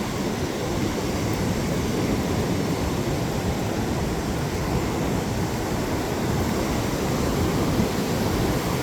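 Steady low rushing noise of wind buffeting the microphone, mixed with the wash of ocean surf on the beach.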